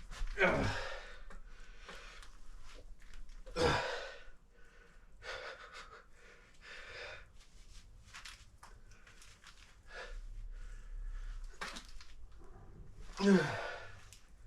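A man straining through a leg exercise: three loud groans that each slide down in pitch, about a second in, near four seconds and near the end, with heavy breathing and gasps between them.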